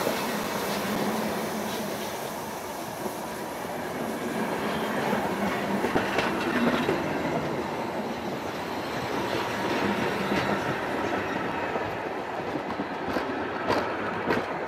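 Old wooden passenger coaches of a museum train rolling past close by, a steady rumble with the wheels clacking over rail joints and a few sharp knocks near the end as the last coach passes.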